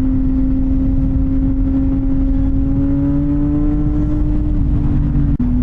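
CFMoto 675NK's inline-three engine with a titanium full-system exhaust, running steadily under way. The revs rise slightly, then there is a quick gear change near the end. A constant low wind rumble lies underneath.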